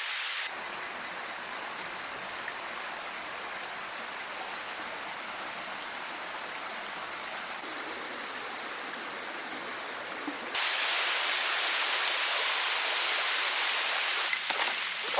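Steady rush of falling water from a waterfall. About ten seconds in it cuts to a louder, brighter rush, with a few faint knocks near the end.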